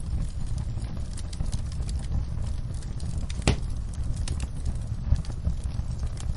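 Wood fire in a fireplace crackling: a steady low rumble of flames with many small scattered pops, and one sharper pop just past the middle.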